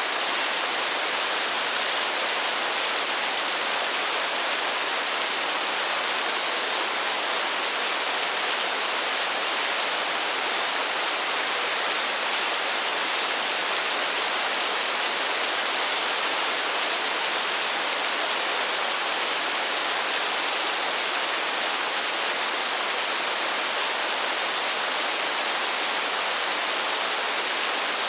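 Steady rain falling in a forest, an even, unbroken hiss with no single drops standing out.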